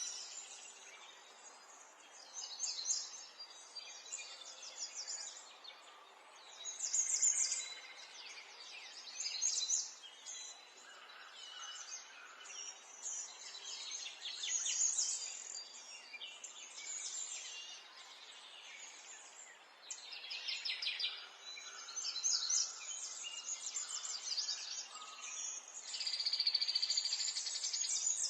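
Songbirds chirping and trilling in short, fast phrases that come every few seconds, over a faint steady hiss of ambient noise.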